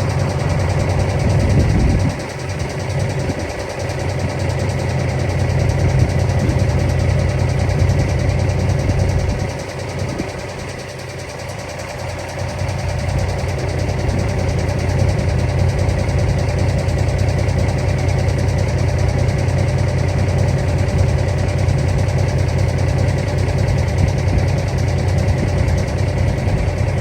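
Heavy diesel truck engine running steadily at a low, even pitch, easing off briefly about two seconds in and again around ten seconds.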